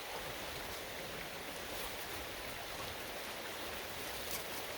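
Steady rush of flowing stream water, with a faint click or two.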